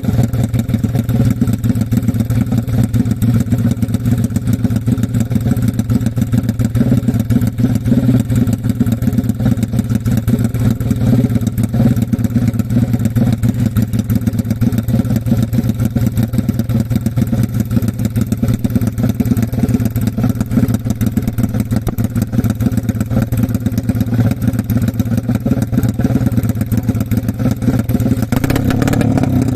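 350cc GL-based racing motorcycle engine running at a steady speed, its firing even and unbroken.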